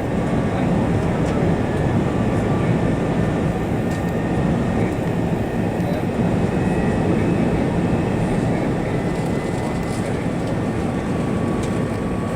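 Steady rumble of engine and airflow noise heard inside the cabin of an Airbus A380 in flight, even and unbroken, with faint steady whines above it.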